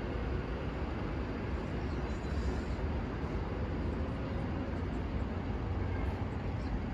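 Class 390 Pendolino electric train running through the station: a steady rumble and hiss with a faint whine.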